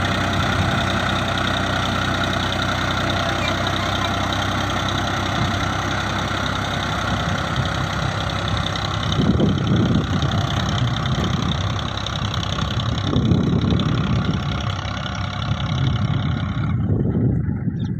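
Tractor diesel engine running steadily while working to pull the stuck tractor free, with three heavier low surges of effort, about halfway through, a few seconds later and near the end.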